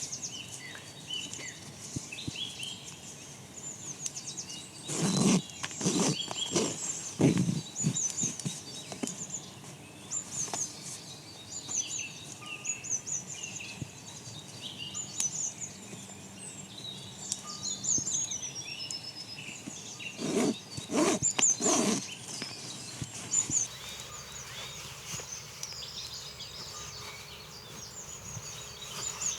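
Several small birds chirping and singing throughout. Brief louder noises, perhaps handling or movement, break in twice: a cluster about five to seven seconds in and another about twenty seconds in.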